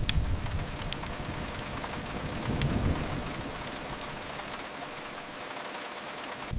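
Steady rain hiss, as of rain on a window, with a few sharp crackle-like clicks. A low rumble swells about two and a half seconds in and then fades.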